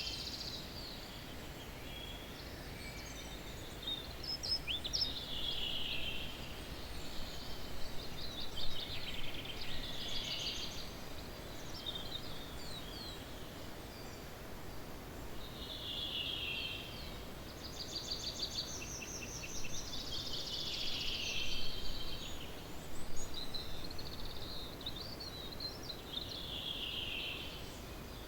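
Early-morning songbird chorus: several birds singing overlapping phrases and quick trills, over a steady low background hiss.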